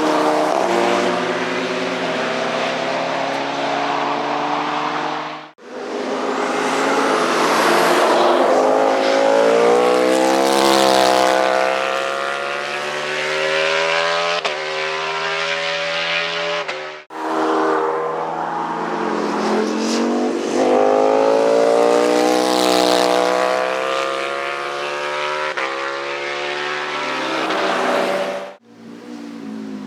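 Motorcycle engines at high revs passing on a racetrack, their pitch rising and falling as they accelerate and go by. The sound cuts off abruptly three times, at about a third of the way, a little past halfway and near the end, as one pass gives way to the next.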